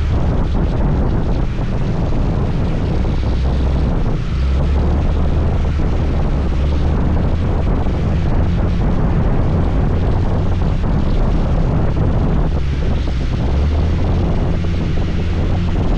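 Motor scooter riding steadily on wet roads: a continuous low rumble of wind on the microphone over the drone of the engine, with road and rain noise.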